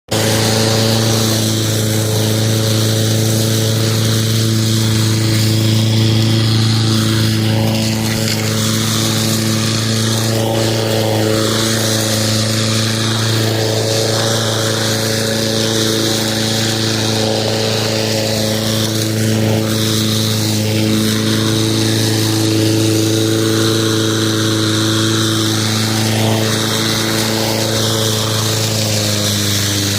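Lawn mower running steadily with an even, constant hum, its pitch dipping slightly near the end.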